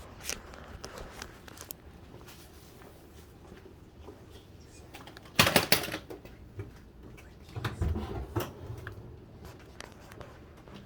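Handling noise of a phone camera being passed along and carried: scattered rustling and clicks, with one brief loud clatter about five and a half seconds in and a few low thumps shortly after.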